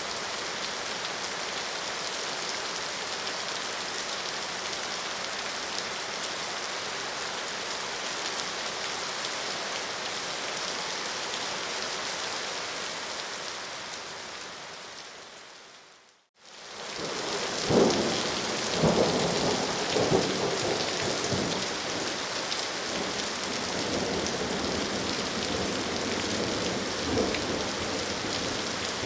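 Steady, heavy rain that fades out about halfway through. Rain fades back in with several rolls of thunder, the loudest coming soon after.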